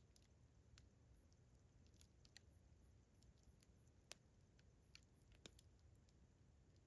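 Faint campfire crackling: sparse, sharp pops of burning wood, the loudest about four seconds in and a quick pair near the end. Behind it, a faint, high cricket chirping repeats steadily.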